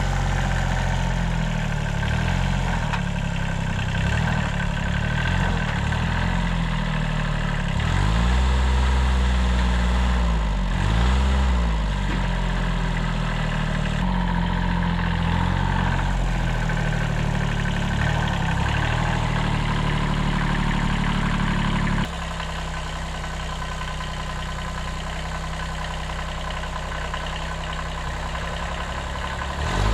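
A 1978 Kubota B6100's 14 hp diesel tractor engine running, its revs dipping and picking back up a few times about a third of the way in. About two-thirds through the sound drops suddenly to a quieter, steadier run.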